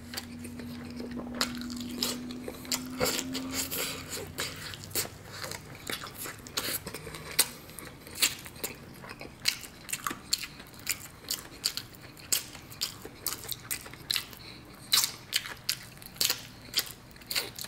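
Close-up crunching and chewing of crispy fried chicken crust, coated in wet batter and seasoned flour, as it is bitten and eaten: a quick run of crisp crackles and crunches. A low steady hum runs under the first few seconds.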